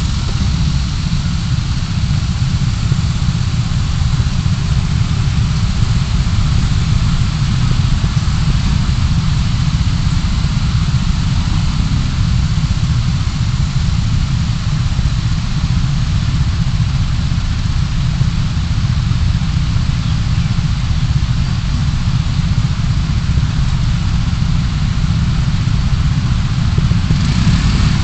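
Car on the move, heard through a dashcam: a steady low rumble of engine and road noise that holds even throughout.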